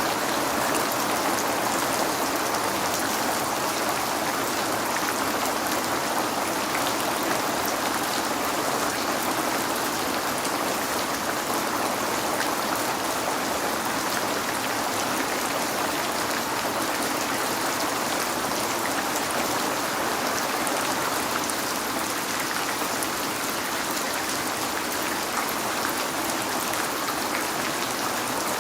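Steady rain falling on a window, a constant even hiss with small drop ticks scattered through it.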